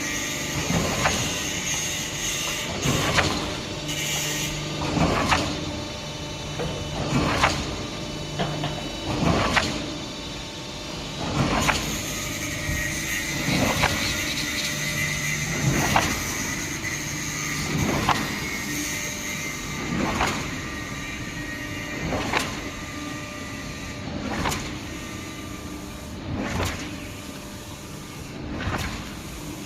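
Mini concrete pump running, a steady machine hum with a sharp knock about every two seconds as the pump changes stroke.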